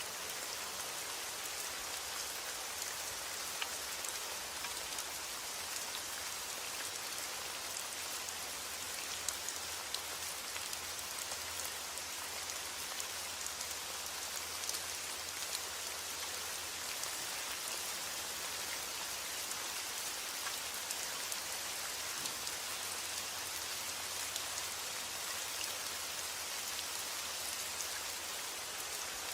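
Steady heavy rain with a constant hiss and scattered louder individual drop taps.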